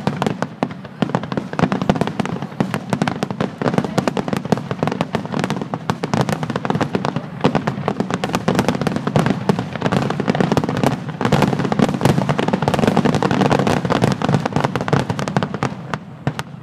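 Fireworks display in a dense barrage: many shells bursting in quick succession, a continuous stream of overlapping bangs and crackling.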